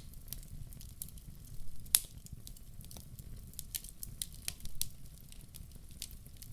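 Wood fire crackling in a fireplace: irregular sharp pops and snaps over a steady low rumble, with the loudest pop about two seconds in.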